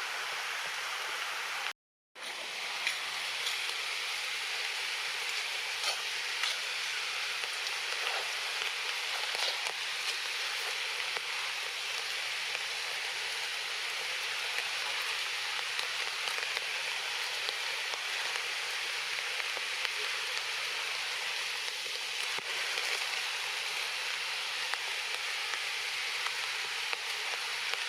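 Steady rain falling, an even hiss with scattered faint drop ticks, broken by a short gap of silence about two seconds in.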